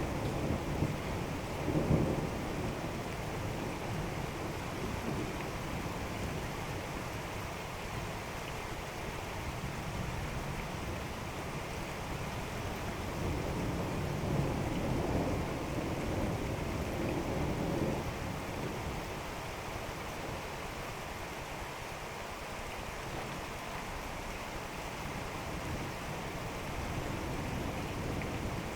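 Steady rain falling during a thunderstorm, with thunder rumbling about two seconds in and again for a few seconds around the middle.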